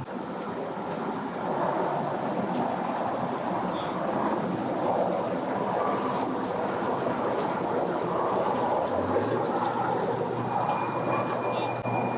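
Engines running at the ramp: a steady mechanical drone, with a low hum that rises and then holds about nine seconds in.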